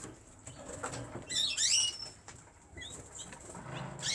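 Canaries chirping: a quick run of high, sliding chirps about a second and a half in, then a few short single chirps.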